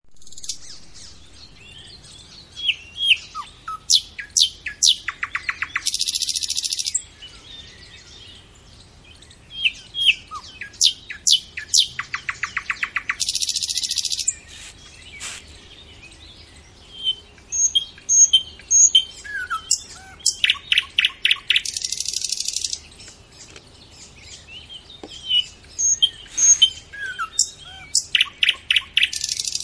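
Birds singing. The same phrase comes back about every seven to eight seconds: a few sharp chirps and whistles, then a fast run of evenly spaced notes, ending in a hissing buzz about a second long.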